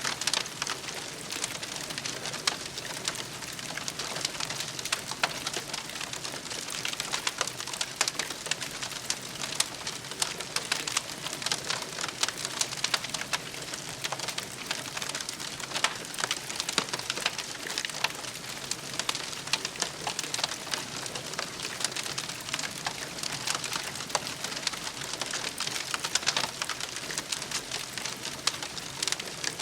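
Wood campfire crackling: a dense, irregular run of small snaps and pops over a steady hiss.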